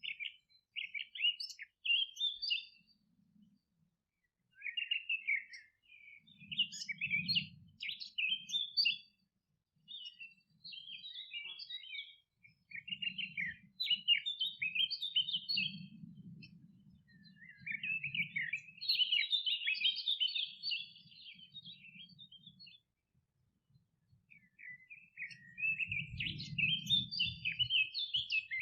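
Songbirds twittering and chirping in a string of short, rapid phrases with brief pauses between them, over an intermittent low rumble.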